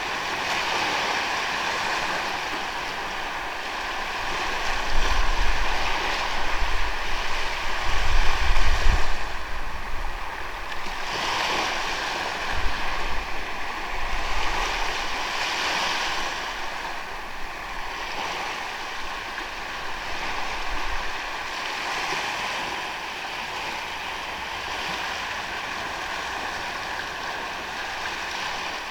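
Sea waves washing onto a sandy beach, a steady hiss of surf that swells every few seconds as sets come in. There is low rumbling in the first third, partly wind on the microphone.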